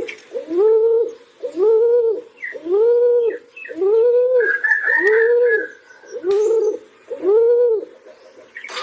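Pigeon cooing: a steady run of low, arched coos repeating about once a second. A brief higher warble comes in around the middle.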